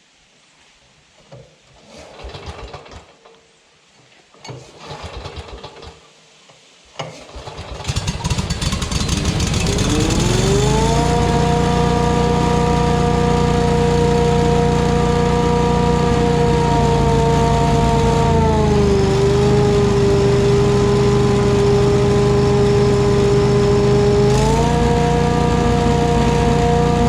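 Billygoat industrial blower with a Briggs & Stratton Vanguard V-twin engine. After a few handling knocks it starts about eight seconds in and revs up to a loud, steady run with a whine that follows engine speed. The speed drops for a while about two-thirds through and picks back up near the end. The crankcase is overfull with oil contaminated by gas.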